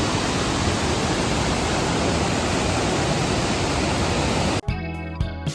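Wei Sawdong Falls as a steady, loud rush of falling water. It cuts off abruptly near the end, replaced by guitar background music.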